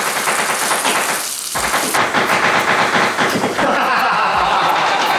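Floured sardines shallow-frying in plenty of olive oil in a frying pan, a steady crackling sizzle. The high hiss thins about two seconds in.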